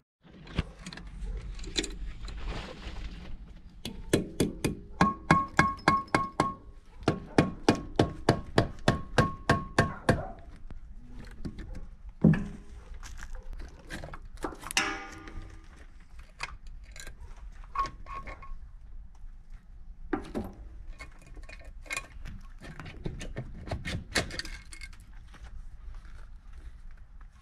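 Metal hand tools working on metal engine parts: a run of sharp, evenly spaced ringing metallic clicks, about three a second, for several seconds near the start, then scattered knocks and a brief scrape.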